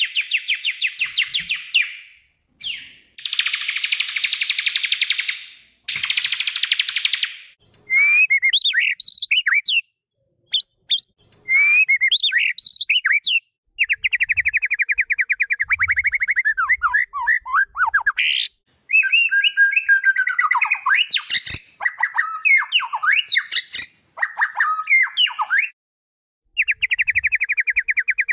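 White-rumped shama (murai batu) song: runs of fast, buzzy trills alternating with varied whistled phrases that slide quickly up and down in pitch, broken by short pauses. This is training song played to a shama that has gone silent, to prompt it to sing again.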